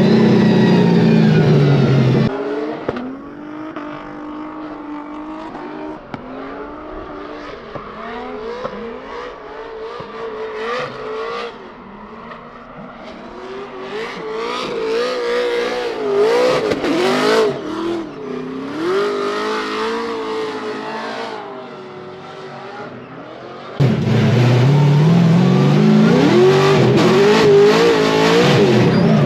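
Scion FR-S drift car's engine revving hard and loud, the revs falling. It then runs quieter and farther off, the revs rising and dipping over and over for about twenty seconds, before it comes back loud and close near the end with the revs climbing.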